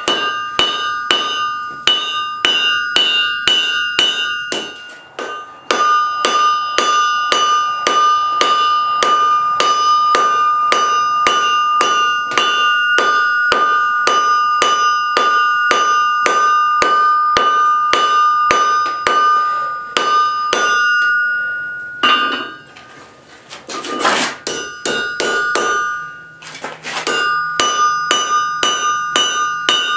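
Hand hammer striking hot spring steel on an anvil, about three blows a second, each blow followed by a bell-like anvil ring. The hammering pauses briefly twice, about five seconds in and again for a few seconds after twenty seconds.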